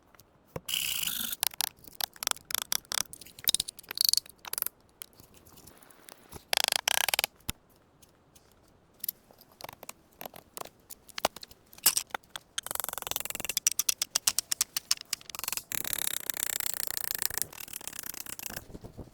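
Irregular scraping, rustling and sharp cracks from hands working with branches and snow, with longer runs of steady scraping about a third of the way in and again from about two-thirds of the way to near the end.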